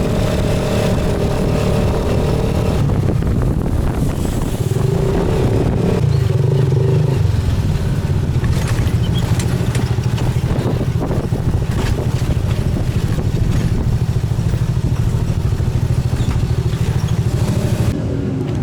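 Motorcycle engine of a tuk-tuk (motorcycle rickshaw) running steadily under way, with a change in the engine note about six seconds in.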